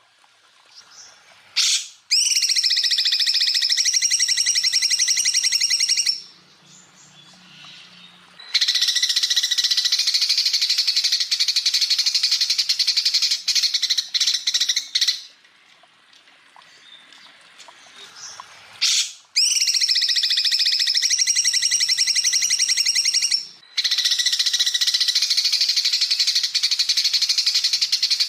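Cucak ijo (leafbird) song from a training recording: long bursts of very rapid, high chattering trills, each lasting several seconds, with short pauses between them.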